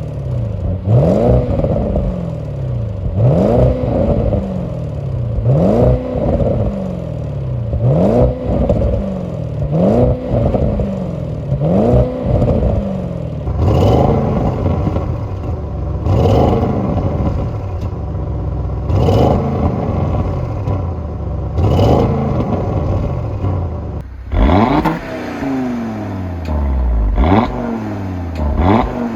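A car engine being revved over and over, the pitch climbing and dropping back about every two seconds. Near the end the pattern changes to longer rising sweeps.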